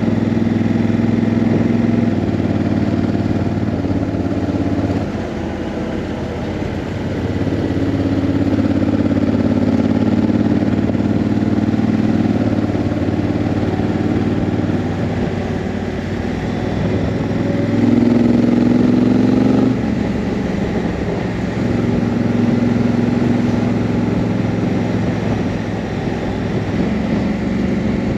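Honda CRF1000L Africa Twin's parallel-twin engine running under way, its pitch stepping up and down with throttle and gear changes, with sudden drops about 5 and 20 seconds in.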